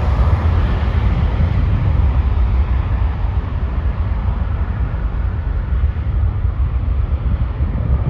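Jet airliner engine noise, a steady rush that slowly fades as the aircraft moves away, with heavy wind rumble on the microphone.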